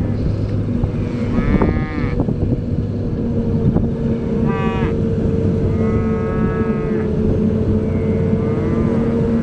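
Diesel farm machinery running steadily with a constant drone, and four short rising-and-falling tonal calls over it about a second apart to two seconds apart.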